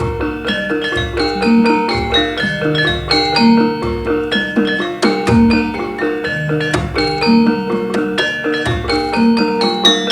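Javanese gamelan ensemble playing: ringing bronze metallophone notes in a steady stream over low strokes that recur about every one and a half seconds.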